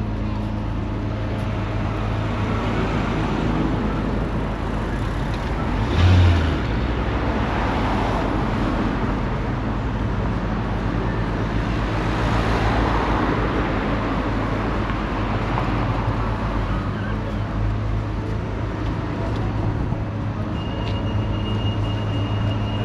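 Road traffic: engines running low and vehicles passing, swelling twice as they go by. A short loud thump comes about six seconds in, and a steady high beep starts near the end.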